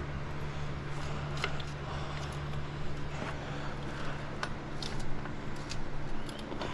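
Light, scattered metallic clicks and taps of tools and parts being handled during rear axle removal on a motorcycle, over a steady low hum.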